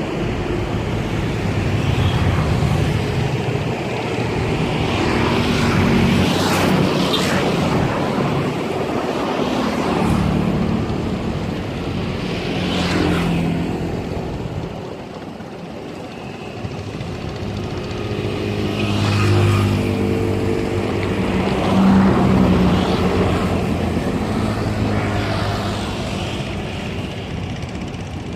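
A motor engine running steadily, its pitch wavering and its level swelling and fading every few seconds.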